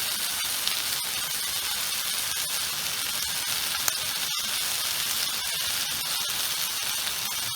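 Meat sizzling as it fries in a pan: a steady hiss with fine crackles.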